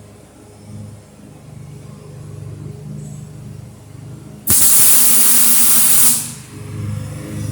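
An electric welding arc laying a short tack weld on steel channel: a loud, even hiss that strikes up suddenly about halfway through, holds for under two seconds, then dies away. A low steady hum runs underneath.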